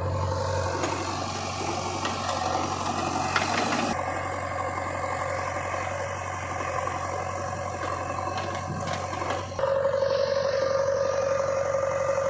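Diesel engine of heavy earthmoving machinery running steadily at work. The sound changes abruptly about four seconds in and again near ten seconds, after which a steady higher hum is strongest.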